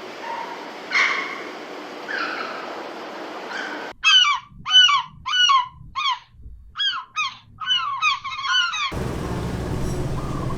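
A goose honking: a quick series of about a dozen short honks, each dropping in pitch, after a few fainter drawn-out calls in the first seconds. Near the end the calls stop abruptly and a steady low rumble takes over.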